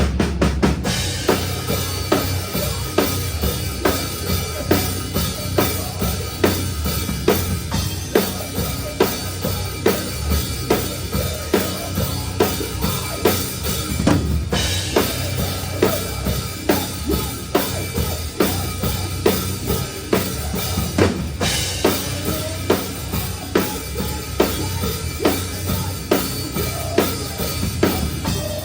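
A metalcore band playing live, heard close to the drum kit: a steady snare backbeat over bass drum and full band. Cymbal crashes come about halfway through and again about three-quarters through.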